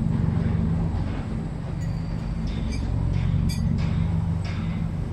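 Heavy machinery engine running with a steady low drone, with a few short high-pitched metallic clinks.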